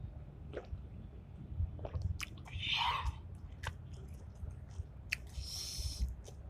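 A person chewing and biting food with the mouth close to the microphone: scattered small wet clicks, and two short swishing sounds about a third of the way in and near the end.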